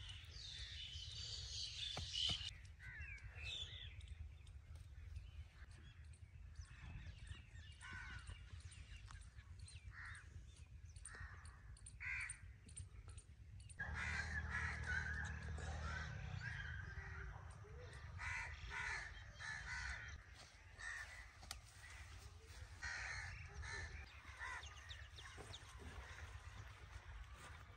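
Birds calling outdoors: many short, separate calls repeated through the stretch, over a faint steady low hum.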